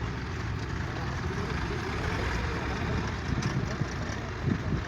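Heavy vehicle engine running steadily at low revs.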